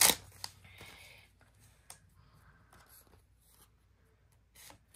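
Foil Pokémon booster pack being handled: a sharp crinkle of the wrapper at the very start, then faint rustling and a few light clicks as the cards come out.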